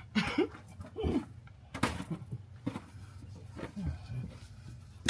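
Scattered clicks and knocks of hand tools on metal as a socket is worked onto a hard-to-reach bolt, the sharpest about two seconds in, with a few short, low voice-like sounds between them.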